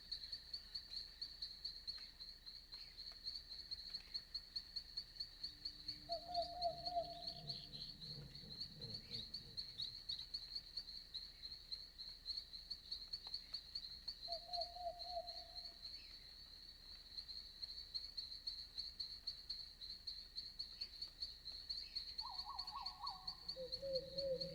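Night-time forest chorus: crickets trilling steadily in a high, fast-pulsing note, with a few short, lower animal calls now and then.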